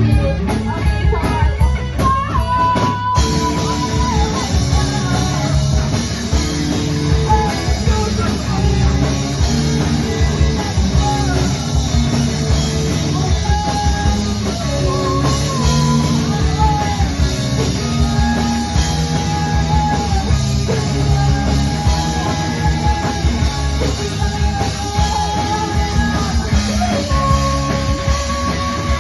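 A rock band playing live, with guitars, bass and drums; the full band comes in about three seconds in after a few sparse guitar strums.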